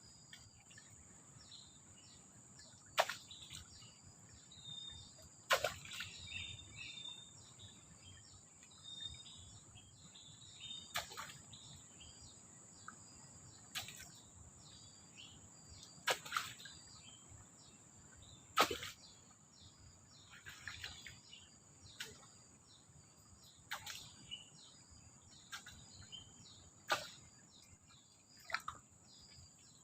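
Forest ambience: a steady high insect drone with scattered bird chirps, and a sharp knock or crack every two to three seconds.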